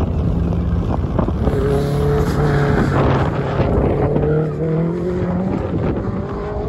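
A car's engine out on a race track, rising steadily in pitch as it accelerates for a few seconds and then fading. Wind buffets the microphone throughout.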